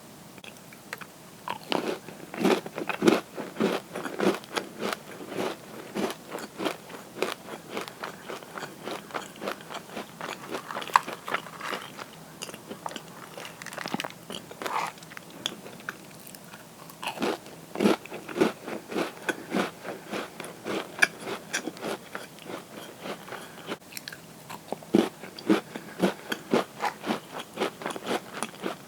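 A person biting and chewing crunchy cookies: runs of crisp crunches, roughly two to three a second, broken by short pauses.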